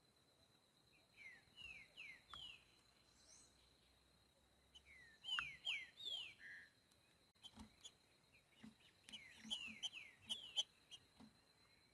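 Green-winged saltator (trinca-ferro) singing: two phrases of clear, downward-sliding whistles, the second louder, then a busier run of short notes and clicks near the end. A faint steady high tone sits underneath.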